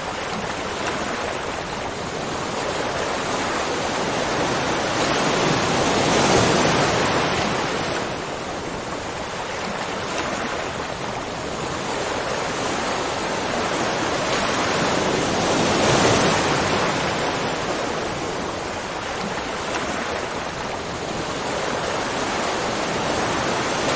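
Waterfall: a steady rush of falling water, swelling louder twice, about ten seconds apart.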